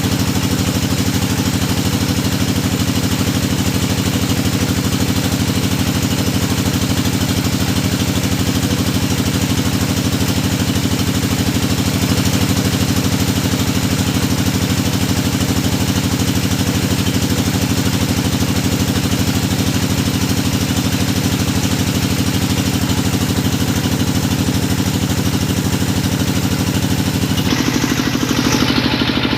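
Engine of a hydraulic deep-well drilling machine running steadily at constant speed, with a low drone. Its sound changes shortly before the end, the higher hiss dropping away.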